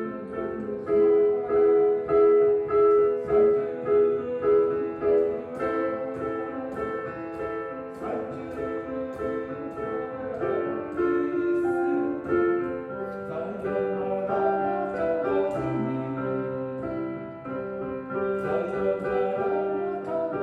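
A street piano being played solo: a slow melody over held chords, with loud chords struck about twice a second during the first few seconds.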